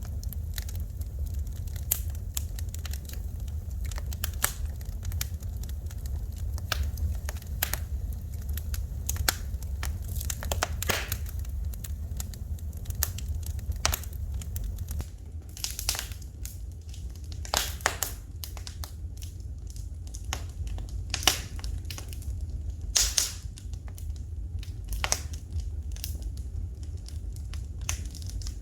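Wood fire crackling in a fireplace: irregular sharp pops and snaps over a steady low rumble, with louder snaps in the second half.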